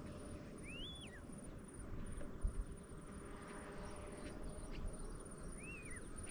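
A bird gives two short whistled calls, each rising then falling, one about a second in and the other near the end, over a steady low rumble.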